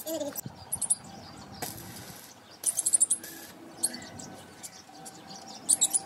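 Small birds chirping in short, high-pitched bursts, with a quick run of chirps about halfway through.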